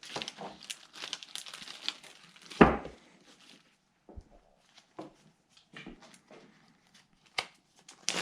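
Plastic bags crinkling and rustling as they are handled and opened, with one louder knock about two and a half seconds in, then scattered small clicks and rustles.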